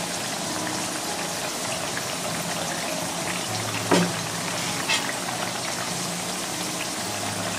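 Potato slices coated in potato starch shallow-frying in oil in a frying pan: a steady, dense sizzle. Two brief knocks, about four and five seconds in, as chopsticks turn the slices.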